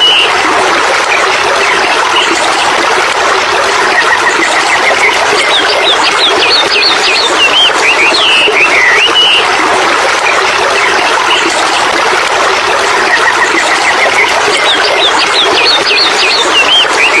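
Songbirds chirping in a few quick groups, with two short trills, over a steady rushing noise of flowing water.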